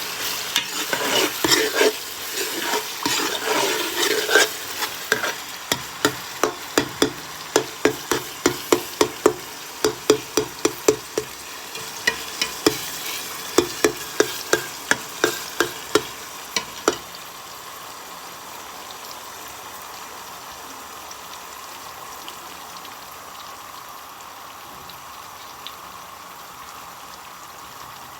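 Food frying in a pot while a spoon stirs it, scraping and knocking against the pot in regular clicks about twice a second. About two-thirds of the way through the stirring stops and a steady sizzle carries on alone.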